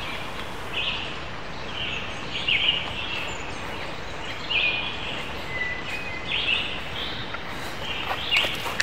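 Birds calling in short high chirps, roughly once a second, over a steady outdoor hiss.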